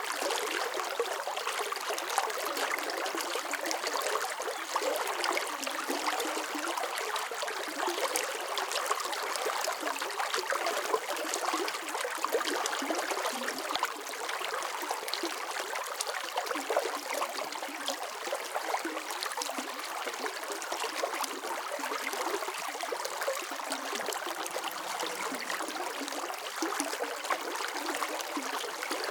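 Running water flowing and trickling steadily, a continuous splashy babble like a small stream.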